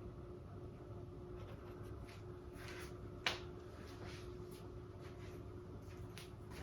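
Paintbrush dabbing and stroking thick acrylic paint onto a stretched canvas: soft, scattered scratchy strokes, with one sharp tap a little past halfway.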